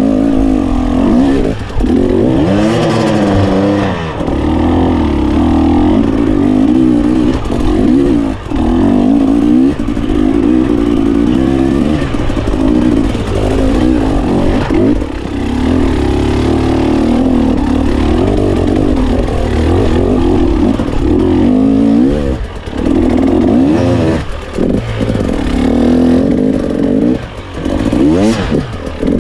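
GasGas 300 enduro motorcycle engine running hard while being ridden, revving up and down over and over as the throttle is opened and shut, with brief drops in revs.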